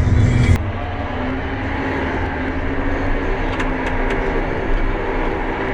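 John Deere 9620RX tractor's engine running steadily while it pulls a ripper, with a sudden drop in level about half a second in and a few faint clicks near the middle.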